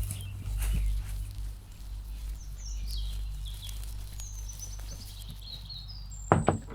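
Birds chirping in the background, then two quick, loud knocks on a shed door near the end.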